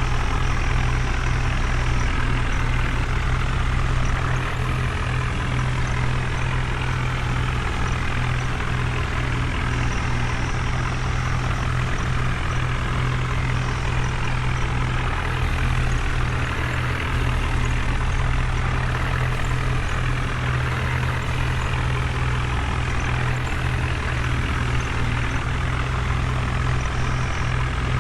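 Heavy diesel vehicle engine running steadily with a constant low drone.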